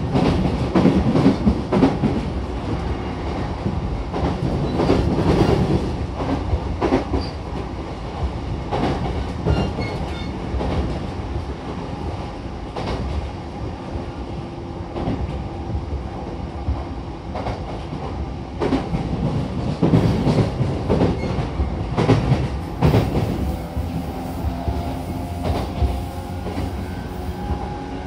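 Inside an E233-7000 series electric commuter train car running at speed: a steady rumble of wheels on rail, broken by irregular clattering over rail joints. Near the end, a faint steady whine rises over the rumble.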